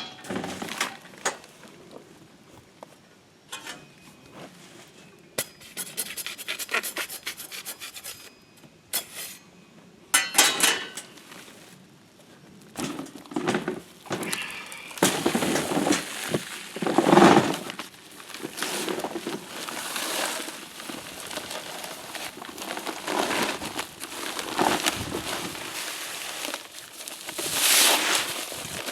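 A trowel scraping and stirring a small batch of concrete mix in a cart by hand, with a gritty rub and clink. The strokes are sparse at first and become near-continuous from about halfway through.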